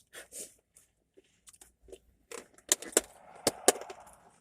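Food packaging being handled, crinkling and tearing. A few scattered clicks give way, a little past halfway, to a dense run of sharp crackles.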